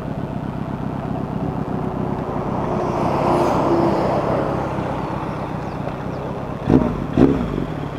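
Motorcycle engine running with road noise, swelling to a peak midway and easing off again; two short sharp sounds near the end.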